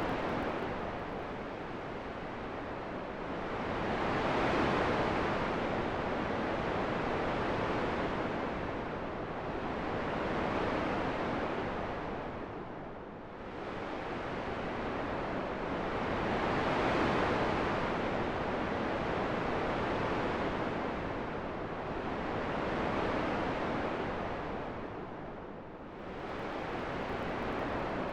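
Relaxing wind-sound track: a steady rushing of wind that swells and fades in slow gusts every several seconds, dipping lower twice.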